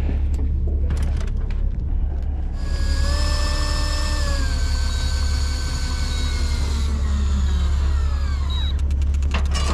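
Electric fishing reel's motor winding in line: a whine starts about two and a half seconds in, holds steady, then slowly falls in pitch and stops near the end, over the steady low drone of the boat's engines.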